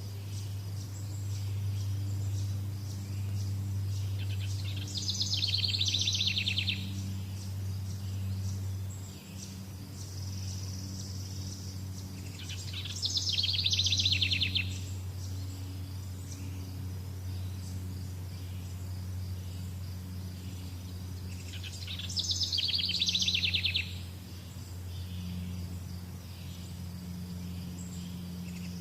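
A bird repeating a rapid, high trilled phrase about every eight seconds, each lasting about a second and a half, over faint steady insect chirping and a low hum.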